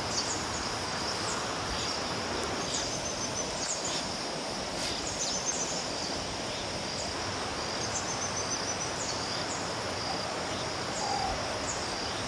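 Steady hiss of continuous rain, with a high, even insect drone and repeated short, high bird chirps and trills over it.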